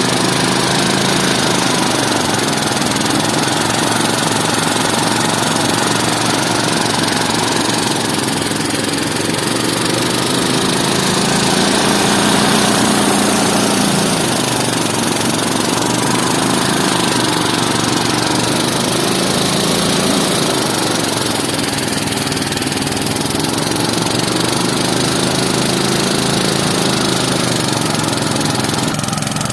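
Small engine running steadily, its pitch sagging and recovering a few times as the load changes.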